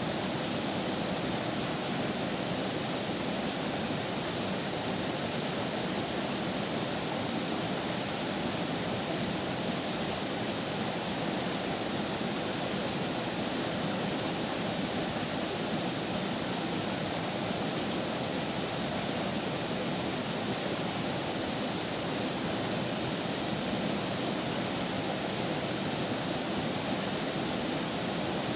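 River water running steadily over rocks, an even, unbroken rushing.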